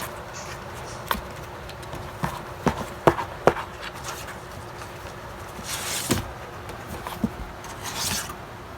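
Kittens moving about and playing: scattered light taps and knocks, loudest a little after a second in and around three seconds in, with two brief scuffling rustles later on.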